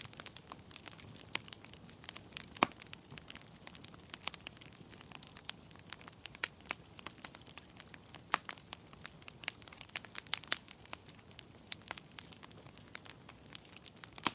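Wood logs burning in a fireplace, crackling with irregular sharp pops over a soft steady hiss; one loud pop about two and a half seconds in.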